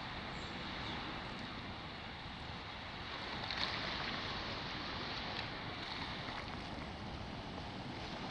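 Steady wash of small Black Sea waves on a sand beach, swelling slightly a few times, with wind noise on the microphone.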